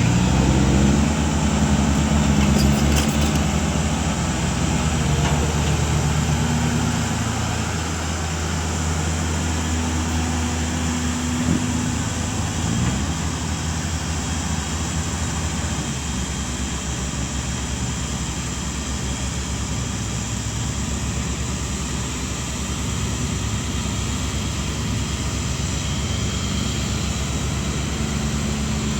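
Heavy diesel engine running, its pitch and level shifting over the first dozen seconds, then settling to a steady run.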